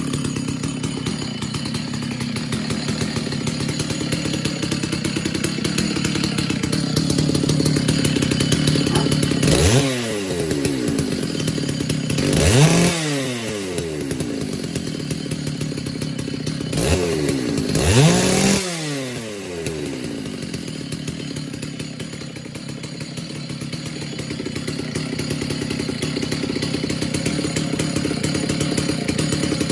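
Stihl 066 two-stroke chainsaw idling shortly after a cold start, following about six months of sitting unused. Twice near the middle it is given a quick blip of throttle and then a fuller rev, and each time it drops back to a steady idle.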